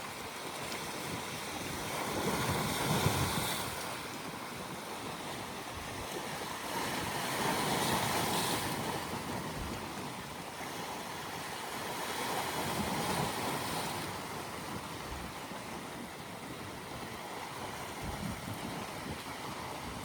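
Sea waves washing in, swelling three times at roughly five-second intervals over a steady surf hiss.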